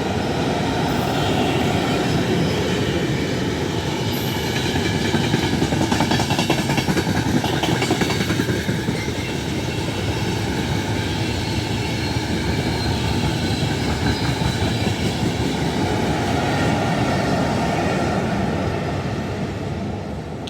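Train running through a station on steel wheels and rails: a steady, loud rumble with rapid clicking over the rail joints and a faint high wheel whine.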